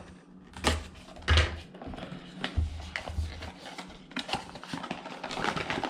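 Packaging being opened by hand: a couple of sharp clicks in the first second and a half and some low handling thumps, then crinkly rustling that thickens near the end.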